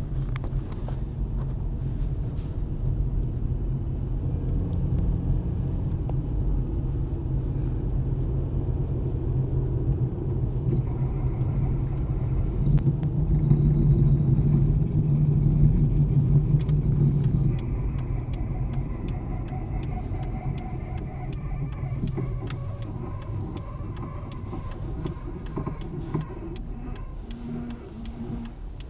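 Volkswagen Bora running, with a low rumble of engine and road noise that is loudest in the middle and eases off. Against it comes a knocking and squeaking from the left-side wheel, heard as sharp clicks that come thicker in the second half.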